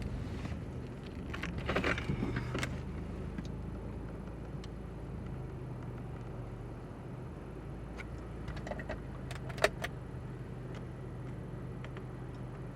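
Stopped Lexus car's engine idling, heard from inside the cabin as a steady low hum, with scattered small clicks and rattles, a brief rustle about two seconds in, and one sharp click near ten seconds in.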